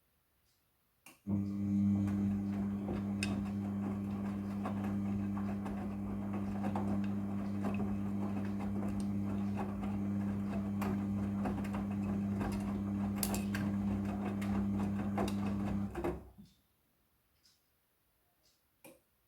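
Midea front-loading washing machine running a steady electrical hum with water rushing and gurgling. It starts after a click about a second in and cuts off suddenly about fifteen seconds later.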